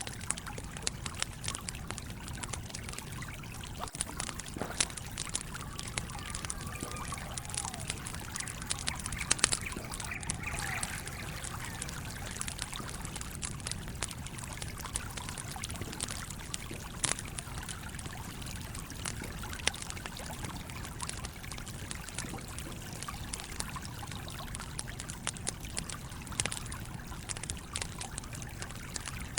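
Campfire crackling, with frequent sharp pops over the steady flow of a stream.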